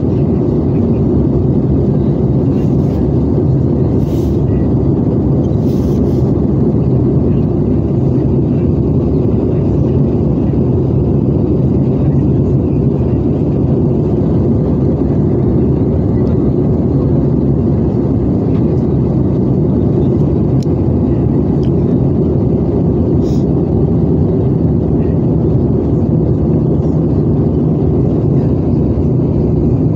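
Steady cabin noise of an Airbus A320-214 on approach for landing: its CFM56 turbofan engines and the airflow over the fuselage make an even, deep rumble.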